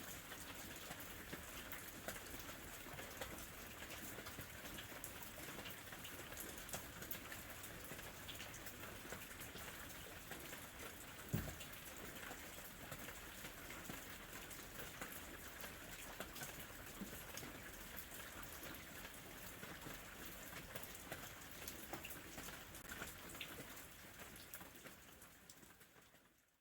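Gentle rain falling steadily, with many separate drops heard against a soft hiss and one louder drop about eleven seconds in. The rain fades out near the end.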